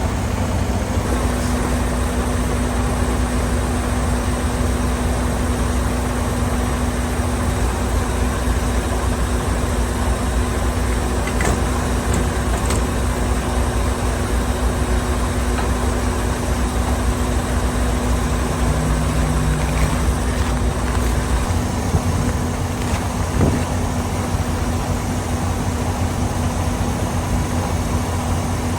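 Steady drone of a semi truck's diesel engine with road noise, heard from inside the cab.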